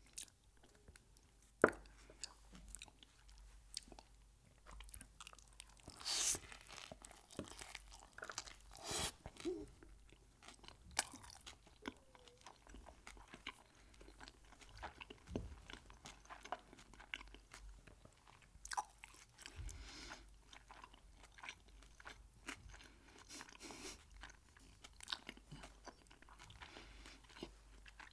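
Close-miked eating of Mexican food: irregular crunchy bites and chewing, with one sharp loud click about a second and a half in.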